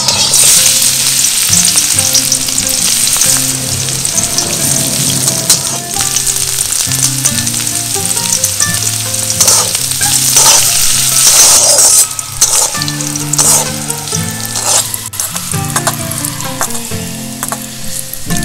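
Spices and then sliced bitter gourd frying in hot mustard oil in a wok, a loud steady sizzle that surges right at the start and again about nine to twelve seconds in, with a metal spatula stirring and scraping against the pan. Instrumental background music with a steady bass line plays underneath.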